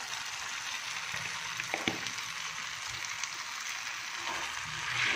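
Onion-tomato masala for masala dosa filling sizzling steadily in oil in a steel pan, with two faint clicks a little under two seconds in.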